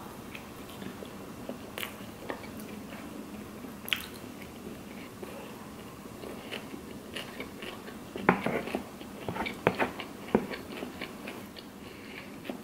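Close-miked chewing of a mouthful of burrito: soft, wet mouth clicks and smacks, with a run of louder clicks about eight to ten seconds in.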